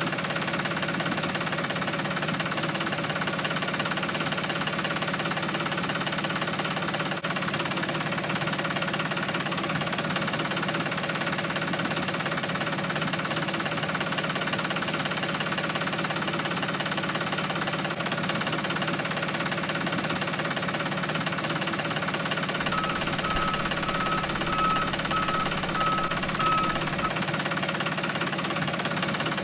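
Small motor-driven machine, the mini tractor, running steadily and evenly throughout. Near the end comes a run of short high beeps, about two a second.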